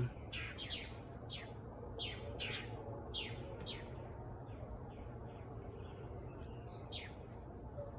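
A baby pigeon (squab) peeping while held for leg banding: a run of short, high, downward-sliding peeps, thick for the first few seconds, then thinning and fading, with one more clear peep near the end.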